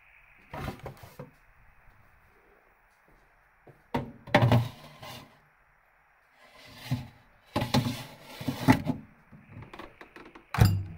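An irregular series of thumps and knocks in clusters, the loudest about halfway through and again a few seconds later, over a faint steady hiss.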